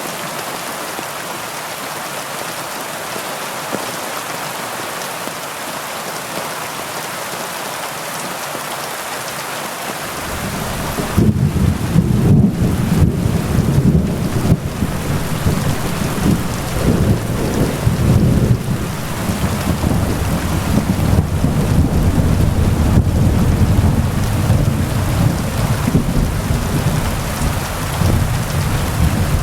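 Heavy rain falling steadily, joined about ten seconds in by a long, loud, low rumble of thunder that rolls on, swelling and easing, through the rest of the stretch.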